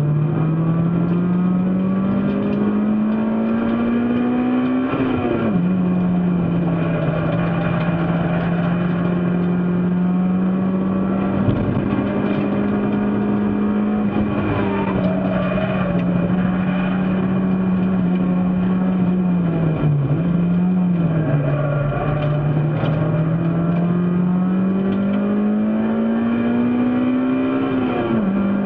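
Race car engine at full throttle, its note climbing steadily through a gear and dropping sharply at an upshift about five seconds in. It holds a fairly even note for a long stretch, dips briefly and recovers around twenty seconds in, then climbs again to another upshift near the end.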